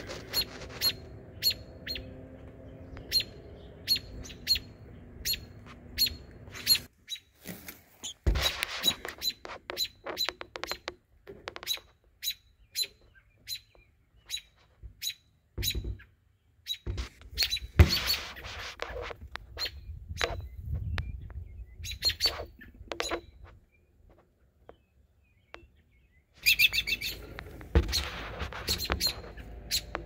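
Small birds chirping: many short, high chirps repeated in quick runs, with brief pauses between them.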